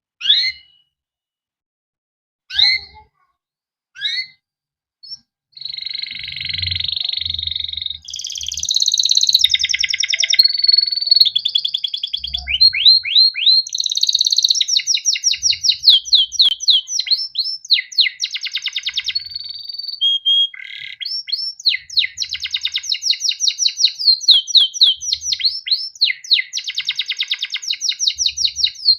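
Male canary singing: a few separate rising "cuit" chirps, then from about five seconds in a continuous rolling song of fast trills and warbles.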